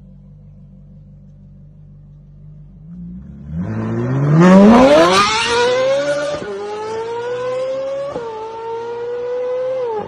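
Ferrari 458 Speciale's V8 running low, then about three seconds in it revs hard under full-throttle acceleration with a sharply rising pitch. Three quick upshifts follow, each a sudden drop in pitch before the engine climbs again.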